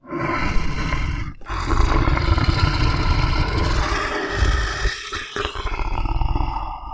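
Leopard growling, a loud, rough, continuous rumble with a brief break about a second and a half in.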